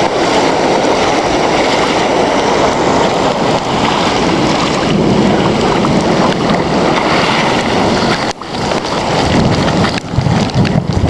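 Floodwater rushing down a street with heavy rain falling, a loud steady wash of water noise that briefly drops away about eight seconds in.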